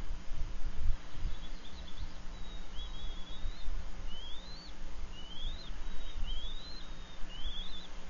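A bird giving a series of short, high, rising whistled calls, about one a second, starting a few seconds in, over a steady low rumble.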